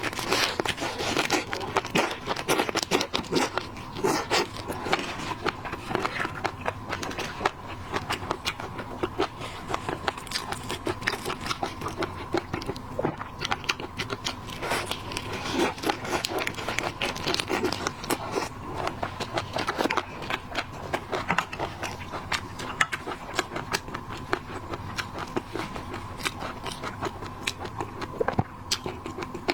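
Close-up eating of shellfish: dense, irregular crackling clicks of prawn shells being cracked and peeled, with biting and chewing, over a faint steady tone.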